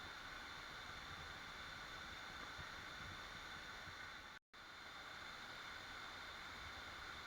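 Waterfall, the steady, even rush of falling water, which cuts out to silence for a split second about four and a half seconds in.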